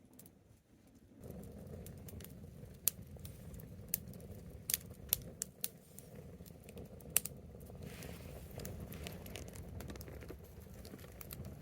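Wood bonfire crackling, with sharp irregular pops over a low steady rumble that comes in about a second in.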